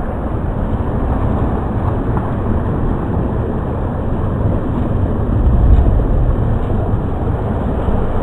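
Steady low rumble of wind buffeting a mountain biker's action camera, mixed with tyre and trail noise while riding.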